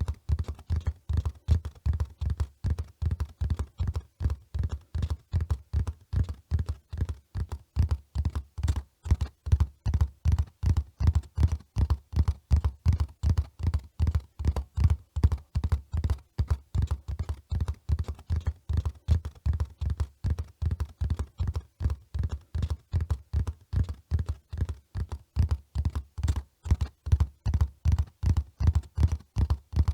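Horse hoofbeats at a run: dull, low thuds in a steady rhythm, about three to four a second.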